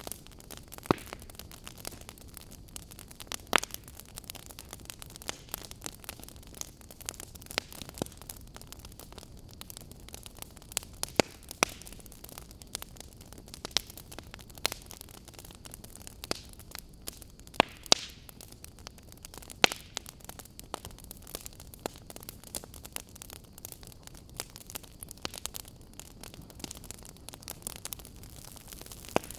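Burning firewood crackling: irregular sharp pops and snaps, a few much louder than the many small ones, over a soft steady hiss.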